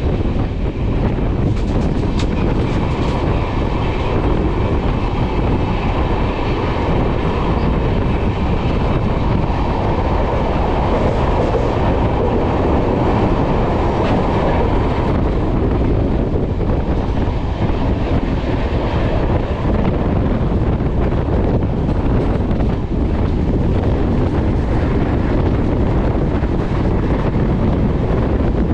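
Express passenger train running along the line, heard from on board: a loud, steady rumble of the wheels and coach.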